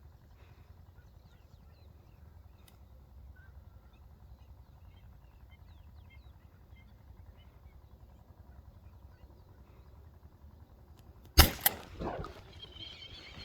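A hunting gunshot at waterfowl, two sharp reports a split second apart near the end, ringing out over a low, steady outdoor rumble with faint bird chirps. Right after, birds start a rapid run of high calls.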